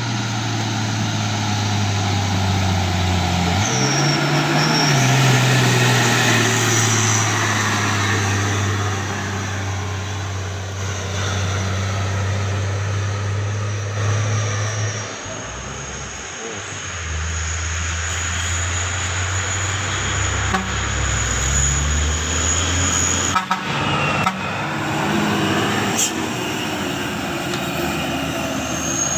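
Heavy diesel trucks passing on a hill road, engines running under load with tyre and road noise. The engine note steps up and down a few times as they shift gears.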